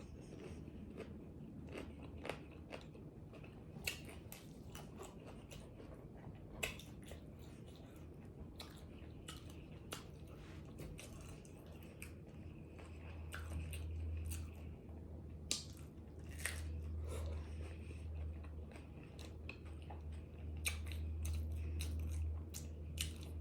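Close-miked eating: a person biting and chewing crunchy food, with scattered sharp crunches. A low rumble comes and goes from about halfway through.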